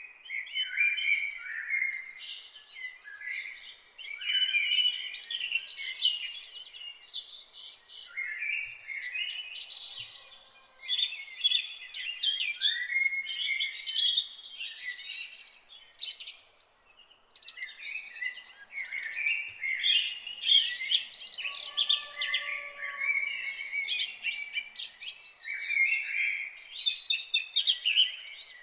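Dawn chorus of several songbirds singing and calling over one another, with quick chirps and trills following almost without a break. A faint, steady high tone runs underneath.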